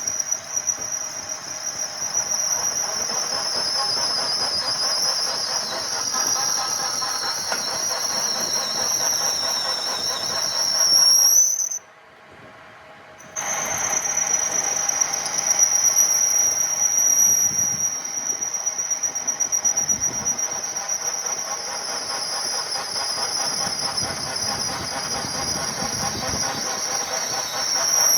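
Metal being machined, most likely a lathe tool cutting the heavy-duty wheel hub: a loud, steady, high-pitched squeal over the machine's running. The squeal rises briefly in pitch and cuts off about 12 seconds in, then starts again a second and a half later and carries on.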